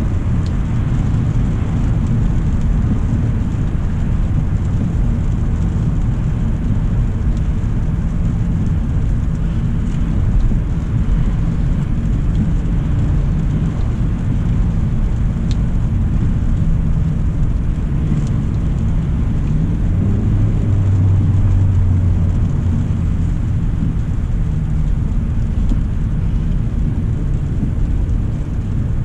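Steady low road and tyre rumble with an engine drone, heard from inside the cabin of a 2025 Hyundai Elantra SEL under way. The low hum swells for a couple of seconds about two-thirds of the way through.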